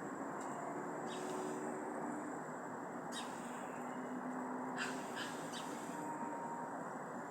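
A few short bird calls over a steady background hiss.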